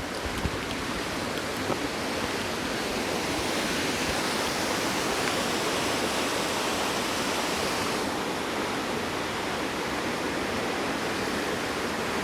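Creek water rushing steadily down a long, steep bedrock rock slide, a natural waterslide-style waterfall, flowing strongly.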